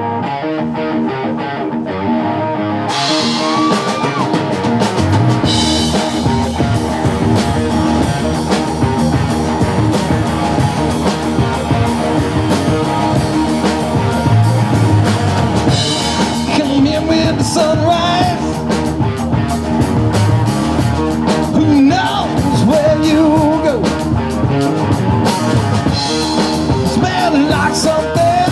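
A live rock band playing an instrumental intro: electric guitars, bass and drum kit, with the drums and cymbals coming in hard about three seconds in. Through the second half a lead guitar plays sustained, bending notes over the band.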